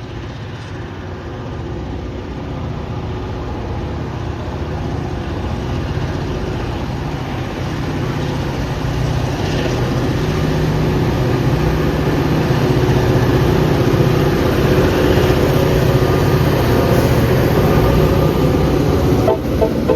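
Diesel freight locomotive approaching, its engine drone growing steadily louder for about fourteen seconds and then holding loud as it draws near.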